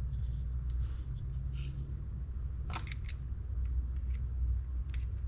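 A few light clicks and ticks of small fishing-reel parts and tools being handled, a cluster of sharp clicks about three seconds in, over a steady low hum.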